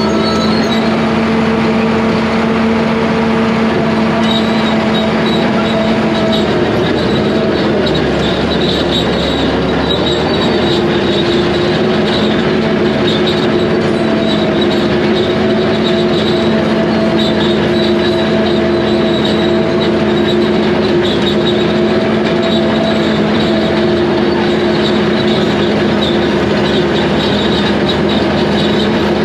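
Crawler dozer working through hard, compacted rock: the diesel engine runs steadily under load, its pitch shifting a couple of times, with a high squeal from the steel tracks and undercarriage over it.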